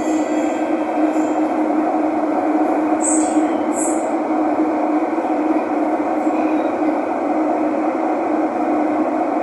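Thomson–East Coast Line metro train running steadily through a tunnel, heard inside the car as an even rumble with a steady hum. Two brief high squeaks come about three and four seconds in.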